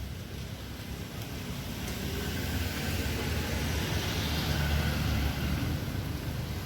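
Low, steady vehicle rumble that grows louder over the first few seconds, with a hiss that swells in the middle and then eases.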